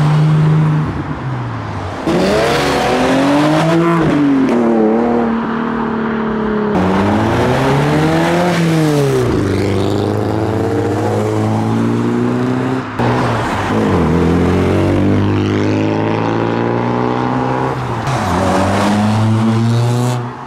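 Modified car engines revving as cars accelerate away one after another, the engine pitch climbing and falling again several times.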